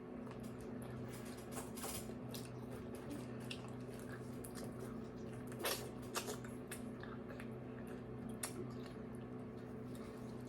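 Someone biting and chewing fresh strawberries: scattered small wet clicks and squishes, the loudest a bit over halfway through, over a steady low hum.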